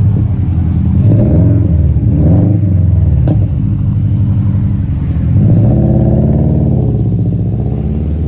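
Car engine being revved several times, its pitch rising and falling between revs, with one sharp crack about three seconds in and a longer rev near the middle that slowly winds down.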